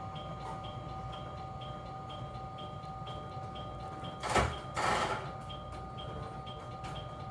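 Train interior equipment: a steady electrical tone with a short high tick repeating about twice a second, then two short bursts of compressed-air hiss a little over four seconds in.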